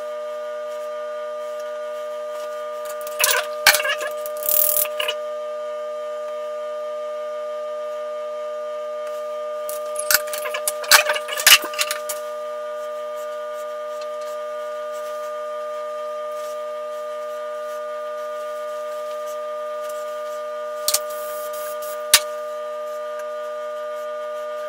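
A steady drone of several held tones, like a sustained chord. Two spells of rustling and clicking come over it, about 3 seconds in and again about 10 seconds in, and two short sharp clicks near the end.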